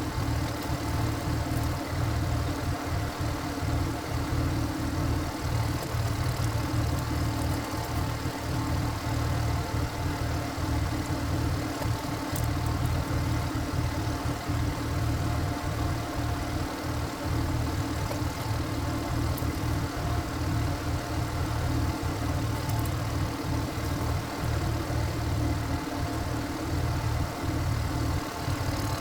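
Walking tractor's single-cylinder diesel engine running steadily at an even speed.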